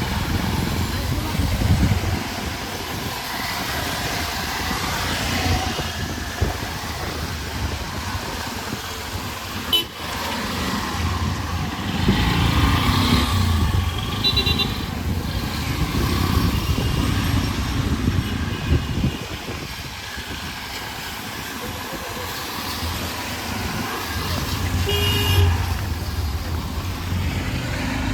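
Busy street traffic with engines running, and two short horn beeps, one about halfway through and one near the end, over voices.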